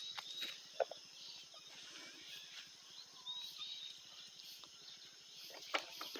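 Birds chirping in short repeated notes over a steady insect hum, with a few scattered soft knocks.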